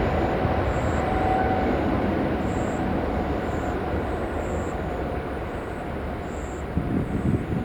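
Jet airliner engines rumbling, slowly fading as the aircraft moves away.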